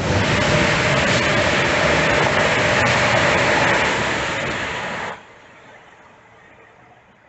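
Main-line train passing close at speed: a loud, steady rushing noise that cuts off sharply about five seconds in, leaving a faint fading rumble.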